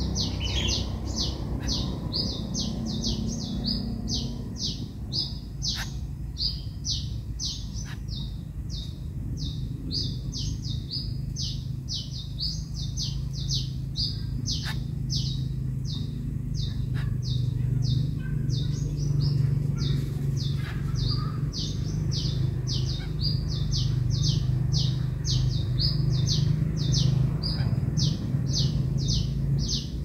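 A bird's high, short chirps repeated rapidly and evenly, about three a second, over a low steady rumble that grows louder in the second half.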